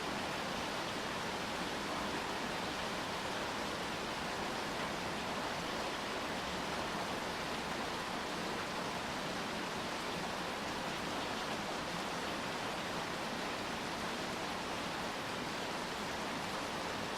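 Steady rainfall, an even hiss with no separate drops or other events standing out.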